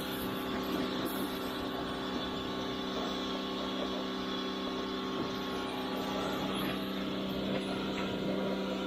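Pressure washer running steadily, with a droning hum and a hiss of spray.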